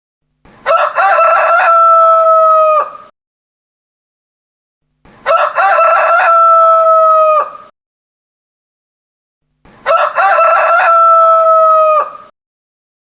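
A rooster crowing three times, each crow about two and a half seconds long: a few short broken notes, then a long held note that dips at the end. There is dead silence between crows, and the three crows look identical, the same crow repeated.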